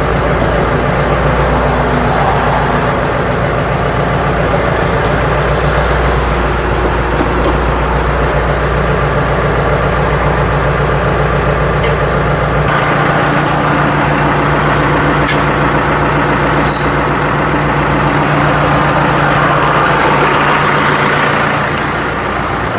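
Tractor engine running steadily, its note changing about 13 seconds in, as the tractor is backed up to hitch on an implement.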